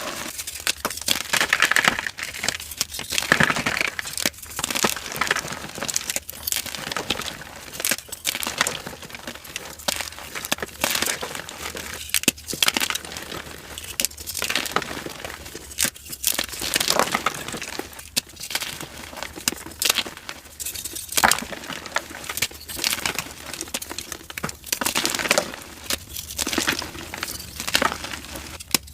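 Dyed gym chalk being crushed and crumbled, giving dry crunches and crackles in irregular bursts with sharp clicks.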